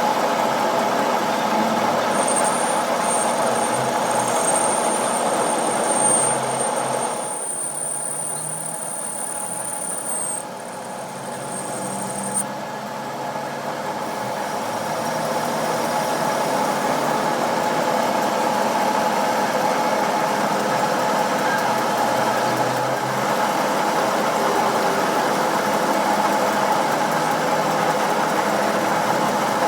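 Workshop machinery running steadily. A thin, high whine joins it about two seconds in and stops about twelve seconds in.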